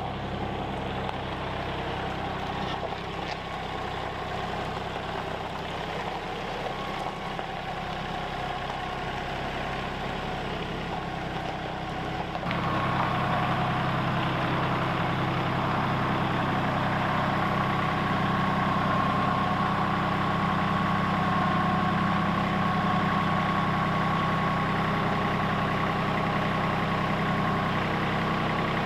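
An engine running steadily, which gets louder and fuller about twelve seconds in, then holds steady.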